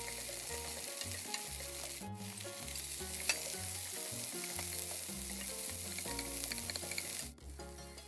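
Cocktail sausages and garlic cloves sizzling in oil in a frying pan as they are stirred with chopsticks; after a cut about two seconds in, the sizzling goes on with chopped onion and bell pepper in the pan. It drops away suddenly near the end.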